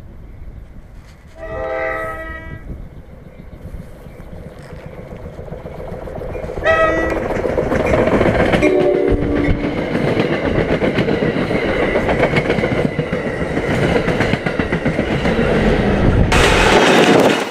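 NJ Transit commuter train sounding its horn three times as it approaches, the last blast lower in pitch as the front of the train goes past. The train then passes close by with loud rumble and wheel clatter on the rails, and the sound turns suddenly brighter near the end.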